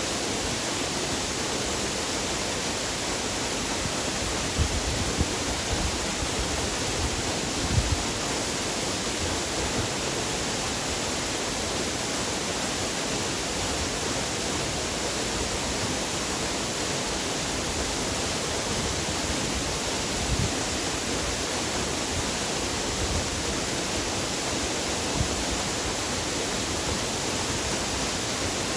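Waterfall: a steady, even rush of falling water, with a few brief low thuds about five, eight and twenty seconds in.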